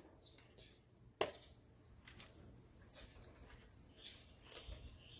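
Faint, short high chirps of small birds repeating every half second or so, with one sharp click about a second in.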